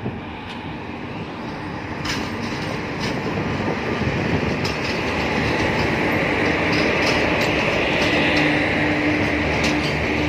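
Twin WAG-5 electric locomotives hauling a freight train past close by. A steady rumble grows louder as they pass, with irregular sharp clicks from the wheels on the track and a steady hum that joins about halfway through.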